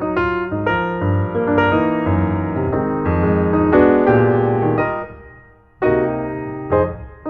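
Piano music: a keyboard melody of struck notes over a bass line, breaking off briefly about five and a half seconds in before starting again.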